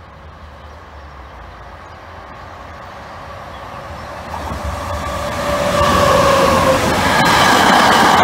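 A freight train hauled by two electric locomotives, a Vectron-type E191 and an E474, approaches and passes, growing steadily louder. A whining tone drops in pitch as the locomotives go by, followed by the rumble and clatter of empty flat wagons on the rails near the end.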